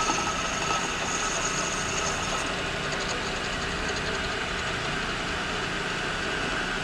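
Machine spindle running a boring head that cuts a bore in a thin-walled zinc die-cast carburetor float bowl: a steady mechanical hum. A high whine in it fades out within the first couple of seconds.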